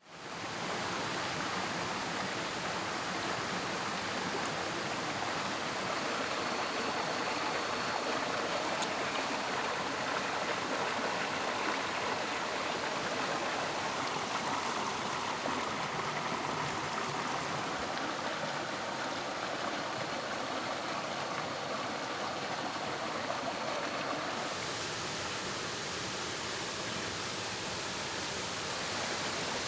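Shallow rocky mountain stream rushing and gurgling steadily over stones, turning hissier about three quarters of the way through.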